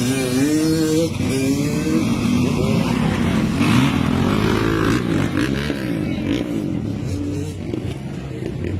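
Motocross motorcycle engines revving on the track, the engine note rising and falling again and again as the riders accelerate and shift.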